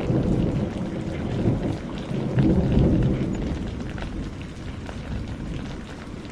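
Rain falling steadily with scattered drop ticks, under a long rolling rumble of thunder that is strongest in the first three seconds and then fades away.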